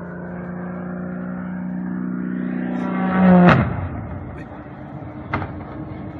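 Aircraft engine drone holding a steady pitch and growing louder, then a loud impact about three and a half seconds in that cuts the engine tone off, leaving a rough noisy rumble and a sharp crack near the end.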